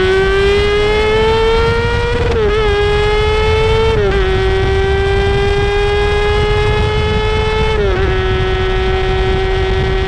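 Inline-four sportbike engine running at high revs under load. Its pitch climbs slowly and drops quickly three times as it shifts up through the gears, over a steady low rush of wind and road noise.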